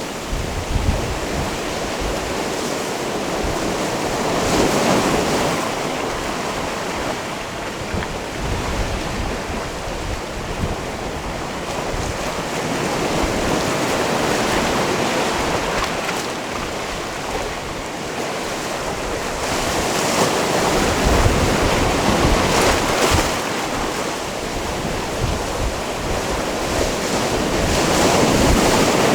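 Sea waves washing onto a rocky shore, a continuous surf that swells and ebbs every several seconds.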